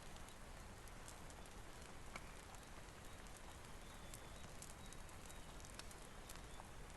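Steady rain hiss mixed with the scattered sharp crackles of a wood fire.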